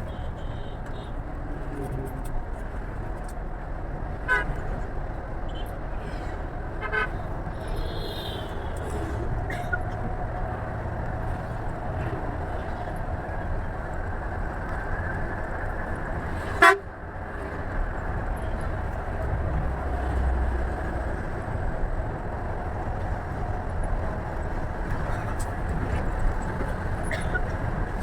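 Scania bus running on the road with a steady low rumble. Two short horn toots come about four and seven seconds in, and a single sharp knock comes just past the middle.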